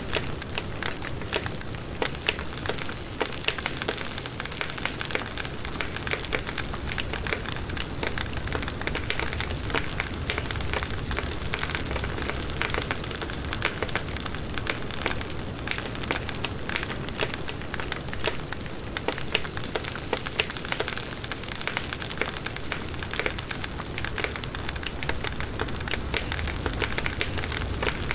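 Firewood burning in a campfire: a steady hiss and low rumble of flames with many small, sharp crackles and pops throughout.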